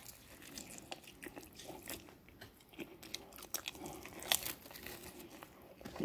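A person chewing a mouthful of pepperoni pizza close to the microphone: irregular small wet mouth clicks and crunches, several a second.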